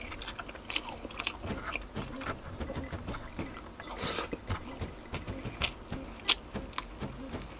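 A person chewing and biting roast chicken eaten by hand, a run of irregular short clicks, with one louder noisy sound about four seconds in as a piece goes to the mouth.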